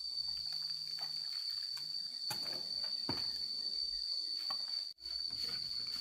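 Steady, shrill insect drone of cicadas or crickets, briefly cut off about five seconds in, with a few faint knocks.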